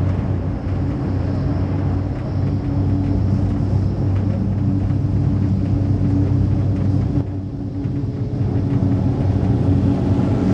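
Steady low rumble and hum of a cable car gondola travelling along its cable, heard from inside the cabin. The hiss over it eases a little about seven seconds in.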